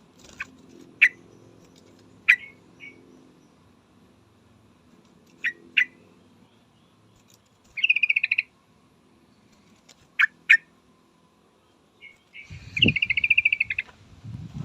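Yellow-vented bulbul (trucukan) calls: short sharp notes, singly or in quick pairs, and two rapid chattering phrases about eight and thirteen seconds in. A few dull thumps sound near the end.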